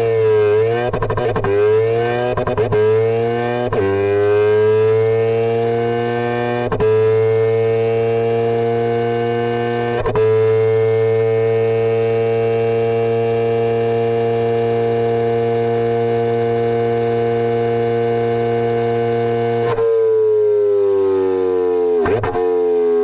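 Ducati Panigale V4 R V4 engine revving: several short throttle blips as the revs climb over the first few seconds, then held at a steady high pitch for about ten seconds, dropping back near the end into more quick blips.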